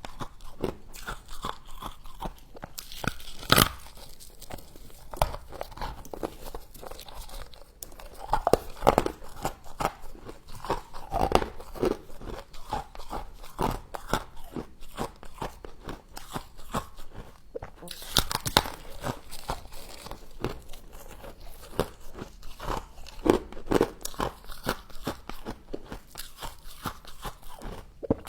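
Close-up crunching and chewing of frost, many irregular bites and crunches of icy frost in the mouth, a few louder crunching bites among them.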